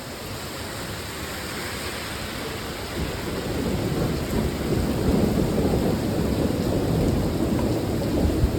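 Steady heavy rain with a rumble of thunder that builds from about three seconds in and rolls on to the end.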